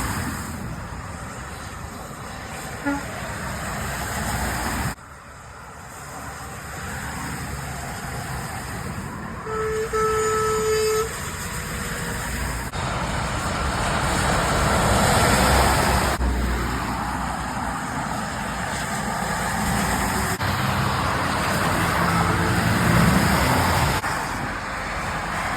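Heavy lorries and traffic passing on a wet motorway, tyres hissing on the spray, in several short clips cut together. About ten seconds in, a truck horn toots once, held for about a second and a half.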